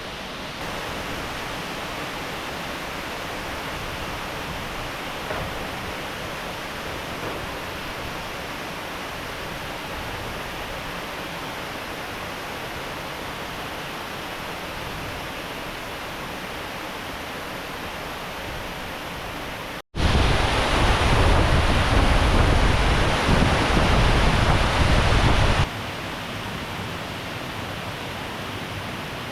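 Steady rushing water of a stream with rapids and a waterfall. About twenty seconds in it cuts suddenly to a much louder, closer rush of water for about six seconds, then drops back to the softer sound.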